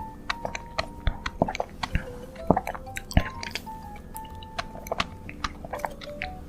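Close-miked chewing with many short, wet mouth clicks, an ASMR eater working through soft sweets.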